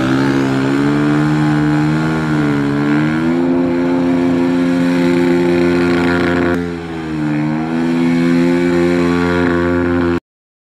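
Stunt motorcycle engine held at high revs through a burnout, its pitch dipping briefly twice before climbing back. The sound cuts off abruptly near the end.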